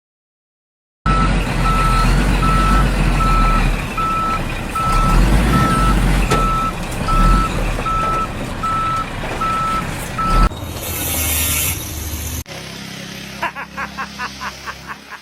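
A heavy truck's engine rumbling while its reversing alarm beeps at an even pace, a little over once a second; both cut off about ten seconds in. Near the end, a quick run of sharp ticks follows.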